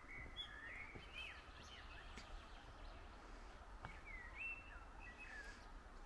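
A songbird singing two short phrases of quick, gliding chirps and whistles, one near the start and one about four seconds in, faint over a low steady background rumble.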